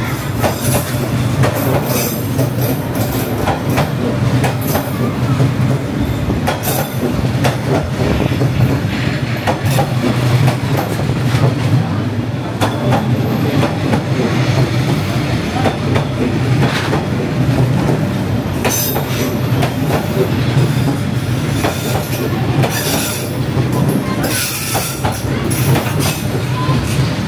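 Diesel train rolling past at close range on Hanoi's street-level railway: a steady low engine drone with wheels clacking over the rail joints.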